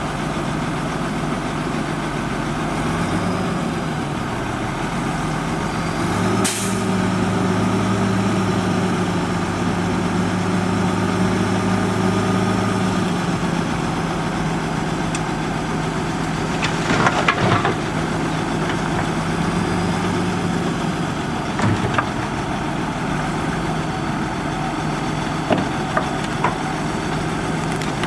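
Diesel engine of a Liugong motor grader running steadily, its note stepping up about six seconds in with a brief sharp hiss. A few short knocks or clanks come near the middle and toward the end.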